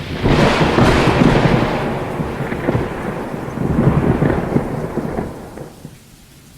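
Thunder rolling and crackling over rain, loud at first, then dying away about five and a half seconds in.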